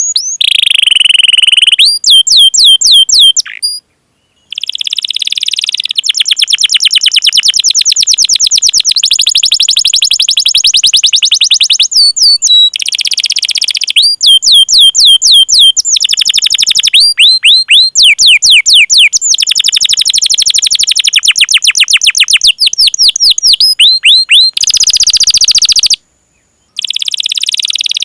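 Canary singing a long, loud song: fast rolling trills and runs of sharp, repeated downward-swept 'cuit cuit' chirps, broken by two short silences, about four seconds in and near the end.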